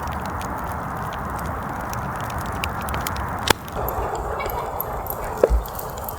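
Wood campfire crackling, scattered sharp pops over a steady hiss, with one loud snap about halfway through and a dull thump near the end.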